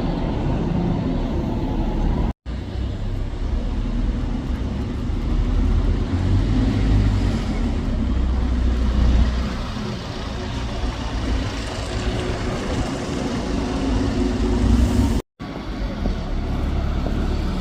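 Street traffic with buses' diesel engines running. The sound drops out for an instant twice, about two seconds in and near the end.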